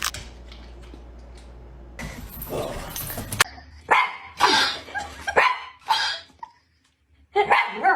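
A dog barking, several short separate barks through the second half.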